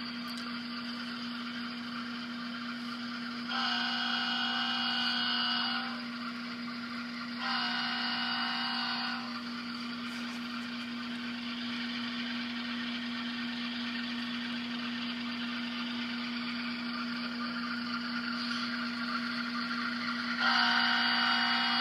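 HO-scale GE ES44AC model locomotive's DCC sound decoder playing a diesel engine running, a steady drone with a constant hum. Over it the model's horn sounds a multi-note chord: two blasts of about two seconds each around four and eight seconds in, and another starting near the end.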